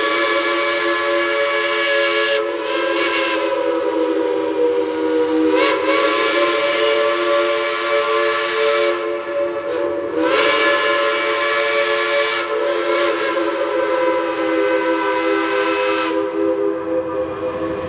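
Geared steam locomotive's whistle, most likely the Climax's, blowing one long chord of several notes at once. The blast swells and eases about five times as it is played.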